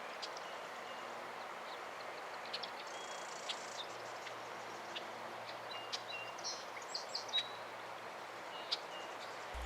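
Short, scattered bird chirps over a steady background hiss of outdoor noise.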